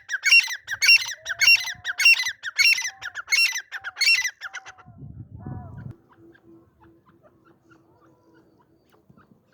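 Male gray francolin calling: a loud, rhythmic series of harsh, high notes, about two a second, lasting some five seconds and then stopping. A brief low rustle follows.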